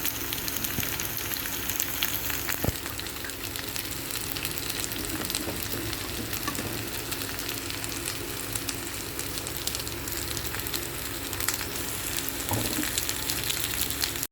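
Mutton meatballs sizzling and crackling steadily as they fry in oil in a pan, with a light knock about a third of the way in.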